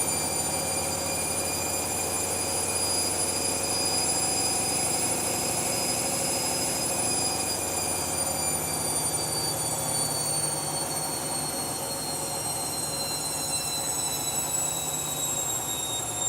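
Washing machine running in a spin, its motor giving a steady high-pitched whine over a low hum; about halfway through, the whine starts falling slowly in pitch as the drum slows.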